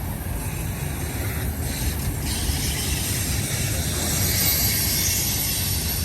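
Union Pacific manifest freight train's cars rolling past on the rails with a steady low rumble. A high hissing, squealing wheel-on-rail sound swells from about two seconds in and is strongest near the end.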